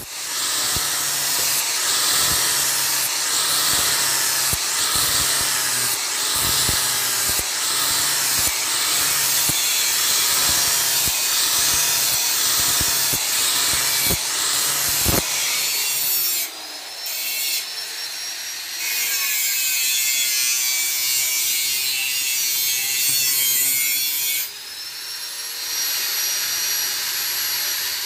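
Power tool grinding, a loud steady rasping with scattered knocks during the first half. After about 19 seconds a faint whine wavers in pitch, and the rasping stops just before the end.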